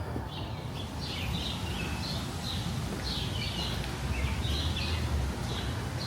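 Small birds chirping repeatedly, several short chirps a second, over a steady low rumble of city background noise that grows a little louder about four seconds in.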